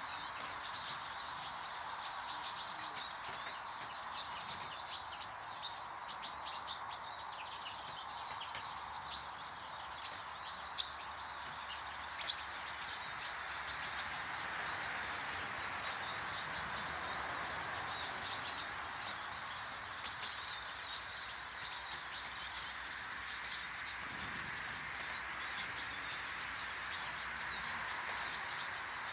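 Small garden birds chirping and calling over and over, short high notes in quick runs, over a steady background hiss.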